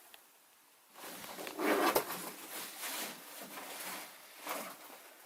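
Irregular rustling and handling noises, like gear or clothing being moved about, starting about a second in and loudest just after that.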